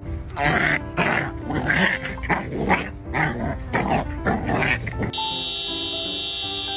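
A dog answering back with a string of short, pitched vocal sounds in quick succession, then background music from about five seconds in.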